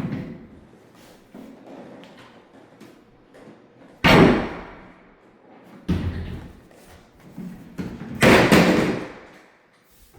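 A series of heavy thuds or bangs, four in all, each dying away over about a second, the loudest about four seconds in and near the end.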